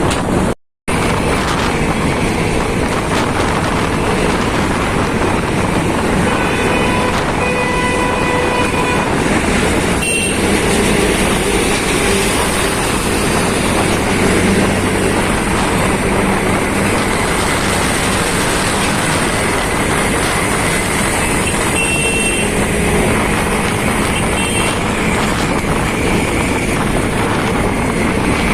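Steady rush of wind and road noise on a moving motorcycle on the highway. The sound cuts out for a moment just after the start. A vehicle horn sounds for a few seconds about a quarter of the way in.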